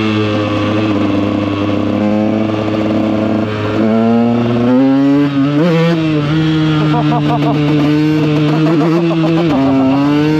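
KTM EXC 125's single-cylinder two-stroke engine running under way, holding steady revs, then rising in pitch about four seconds in as it is accelerated, with a brief drop and pickup in revs near the end.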